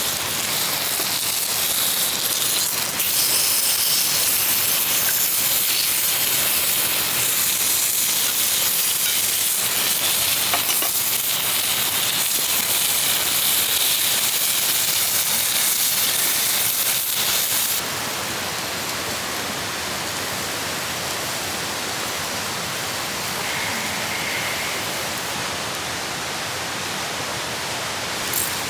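Food sizzling steadily in a frying pan over a Swedish torch log fire; the sizzle drops to a quieter level about 18 seconds in.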